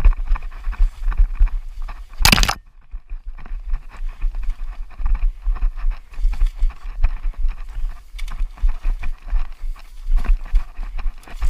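A runner's footsteps in a fast, irregular patter, with wind buffeting the microphone, and one loud knock about two seconds in.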